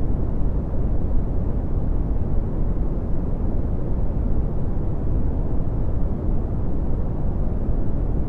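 Red (Brownian) noise: a steady, deep rushing hiss with most of its power in the bass, falling away steeply toward the treble.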